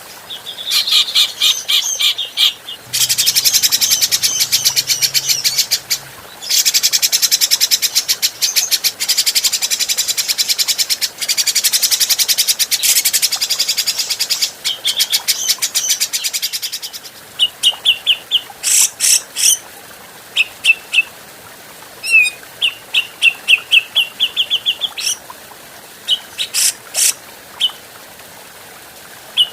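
Cucak jenggot (grey-cheeked bulbul) calling in long, very rapid chattering runs, then in shorter bursts of quick repeated notes with pauses between them from about halfway on.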